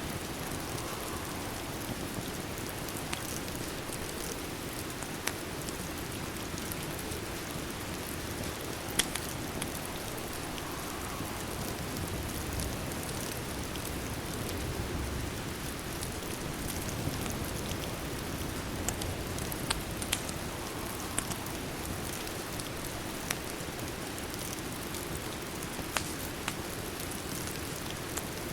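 Steady rain falling, with scattered sharp crackles and pops from a wood fire every few seconds.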